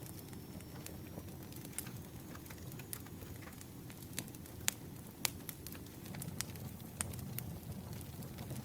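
Campfire crackling: a steady low rumble of burning with many sharp, irregular pops and snaps, a few louder ones about halfway through.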